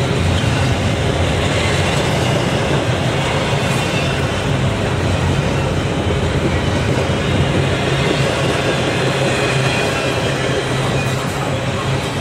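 Railroad cars rolling past on the track: a steady, continuous rumble of steel wheels on rail.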